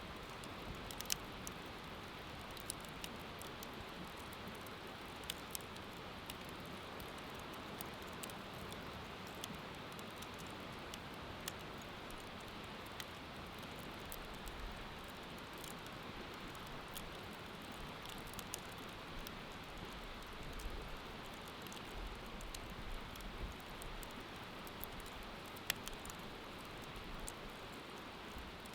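Wood bonfire crackling: scattered sharp pops and snaps over a steady hiss, with a couple of louder pops about a second in and near the end.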